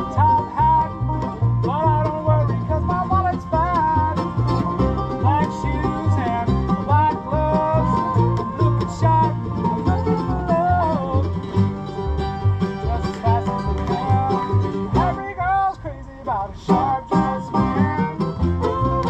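Acoustic bluegrass band playing an instrumental break: plucked strings carry a bending melody over a steady, evenly pulsing bass line, with a short thinning of the sound near the end.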